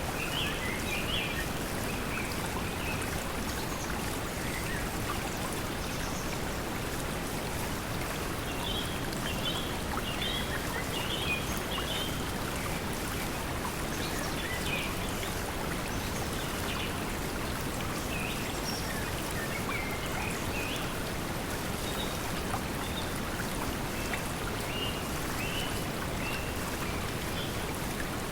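Pink noise blended with flowing stream water, a steady even hiss, with short bird chirps scattered throughout.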